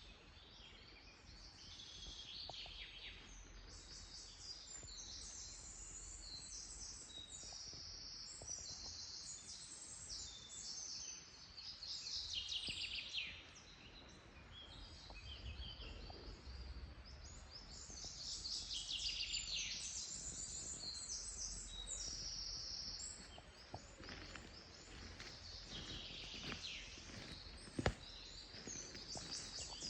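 Several songbirds singing in a forest, with many short chirps and trills overlapping. A single sharp click sounds near the end.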